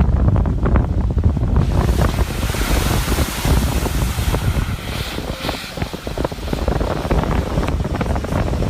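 Wind buffeting the microphone over a rushing, splashing wash of floodwater; about two seconds in, a loud hiss of water spray or rain joins the low rumble.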